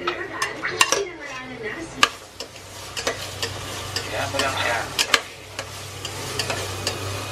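Diced hotdog sizzling as it fries in a stainless steel pot while a spatula stirs it, with the spatula scraping and knocking sharply against the pot now and then.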